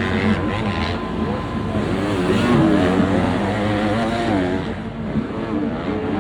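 Several MX2 motocross bikes racing, their engines revving up and down as they accelerate and shift.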